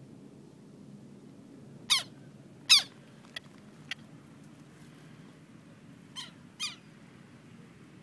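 A bird giving short, sharp calls: two loud ones close together about two seconds in, then two fainter ones about six seconds in.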